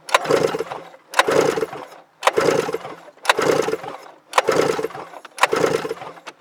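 Two-stroke triple engine of a 1997 Yamaha Vmax SX 700 snowmobile being cranked over, about six strokes roughly one a second, each starting sharply and fading, with a compression gauge in the center cylinder. The gauge reads a healthy 125 psi.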